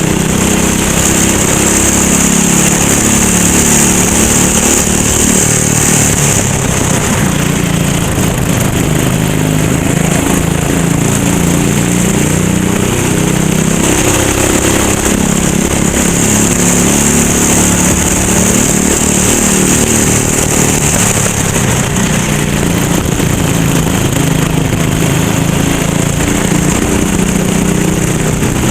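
Go-kart engine running at race pace, its pitch repeatedly rising under acceleration and dropping back off the throttle.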